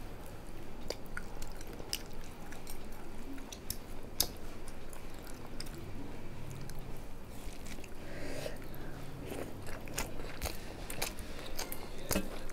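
Close-miked chewing of a mouthful of rice and fried fish, with irregular sharp crunches and clicks.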